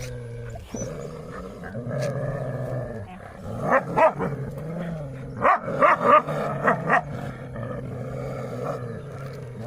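Street dogs growling aggressively in a fight, a low rumbling growl held through, broken by two clusters of short, loud barks or snaps in the middle.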